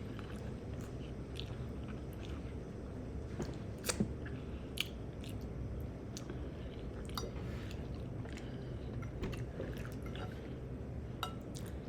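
A person chewing food close to the microphone, with scattered small wet mouth clicks and smacks; one sharper click about four seconds in.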